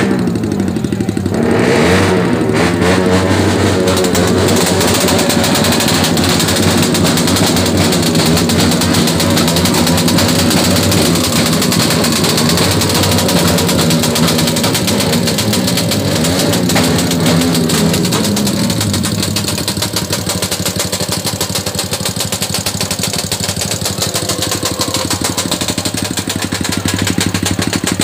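Motorcycle engine running loud, its revs rising and falling, easing off a little past the middle.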